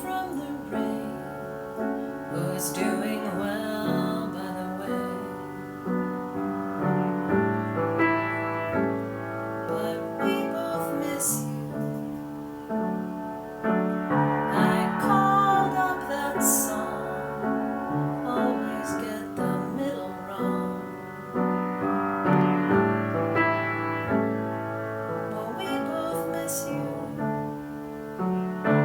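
Piano music, chords and melody, with a higher wavering melody line entering about halfway through.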